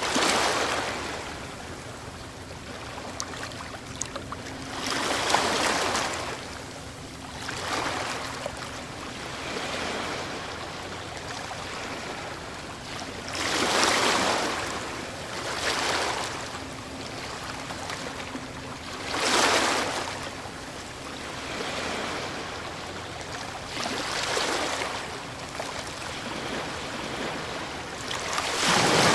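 Ocean waves breaking and washing up a shore, surging every few seconds over a steady bed of surf noise.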